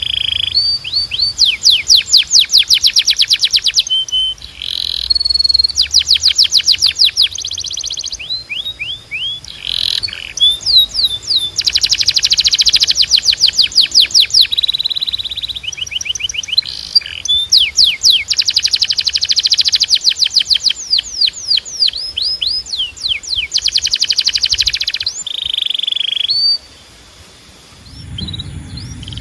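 Canary singing: fast trills of rapidly repeated notes, many sweeping down in pitch, in phrases broken by short pauses. The song stops for about a second near the end, then starts again.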